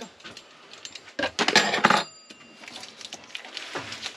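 Metal kitchenware clattering as it is handled, with a loud clatter about a second in that leaves a brief metallic ring, among lighter clinks.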